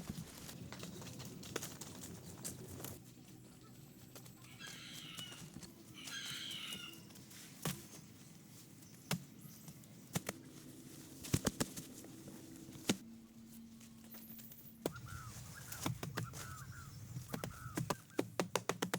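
Scattered sharp knocks and taps, with two short bird calls a few seconds in and softer chirps near the end.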